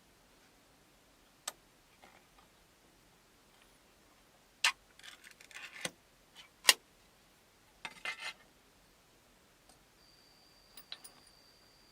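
A few sharp taps and clicks, the loudest about 4.7 and 6.7 seconds in, with brief rustling and scraping between them, as of small objects being handled. A thin steady high tone comes in near the end.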